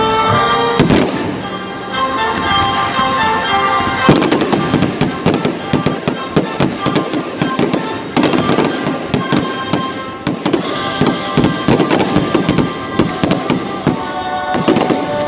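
Fireworks display: a rapid, dense run of bangs and crackling from about four seconds in until near the end, over music with sustained tones that is clearest at the start and again at the end.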